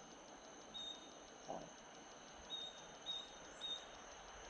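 Night insect chorus: a steady high trill with a fast even pulse, with short high chirps at irregular intervals, three close together near the end. A brief low sound comes about one and a half seconds in.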